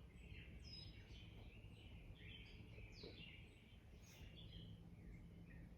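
Faint birds chirping in the background, short scattered calls over a low steady hum.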